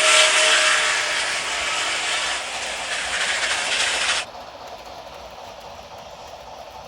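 HO scale model locomotive's sound system playing a loud hiss that cuts off suddenly about four seconds in, leaving a much quieter steady running sound.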